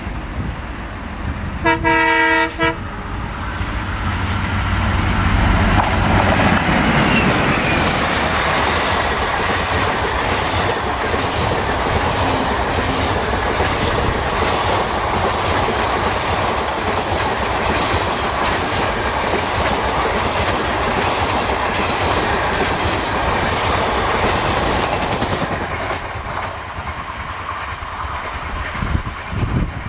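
Diesel train: the locomotive gives a short horn blast about two seconds in, then its engine and the train's wheels run past for some twenty seconds before easing off near the end.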